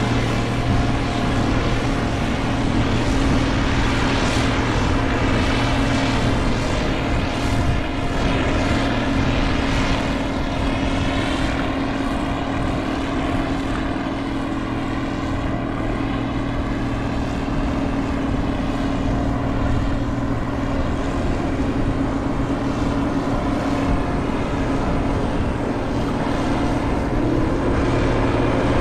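Diesel engine of heavy harvest machinery running steadily under load, with a constant low drone.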